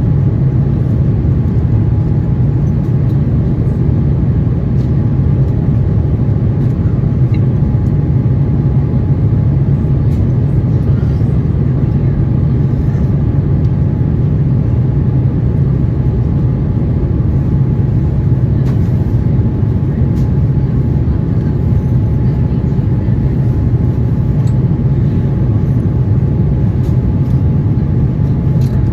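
Steady cabin noise inside an Airbus A350-900: a loud, even low rumble of the engines and airflow with a thin steady whine above it.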